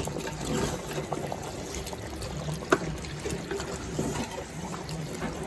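Water trickling, with many small scattered ticks and drips.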